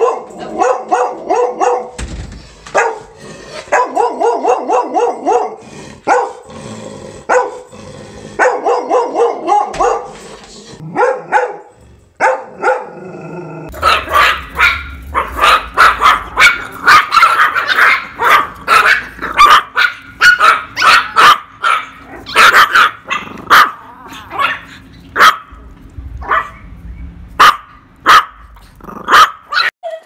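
Dogs barking. A golden retriever's barks come in bursts through the first half. About halfway through, a pinscher takes over with higher-pitched, rapid yapping barks.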